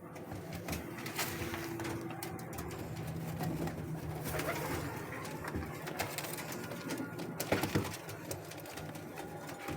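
White Frill pigeon cooing in low, drawn-out coos, the longest a few seconds in. Scattered sharp knocks and scuffs, the loudest about seven and a half seconds in.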